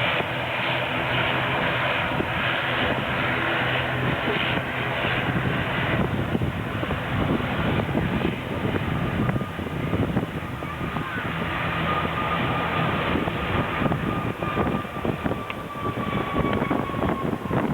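Airliner engines running: a steady low hum, joined in the second half by a thin high whine that slowly falls in pitch.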